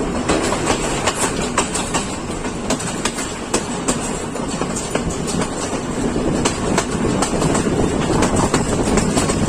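Passenger train running along the line, its wheels clattering over the rail joints: a steady rumble with many sharp, uneven clicks.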